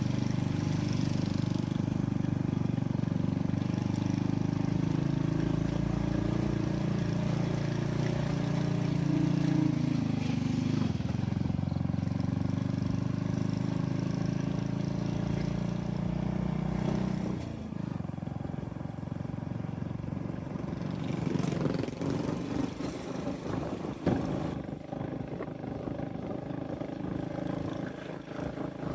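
Motorcycle engine running steadily while riding, its note shifting with throttle. About two-thirds of the way in, the engine note falls away and the sound turns quieter and less even.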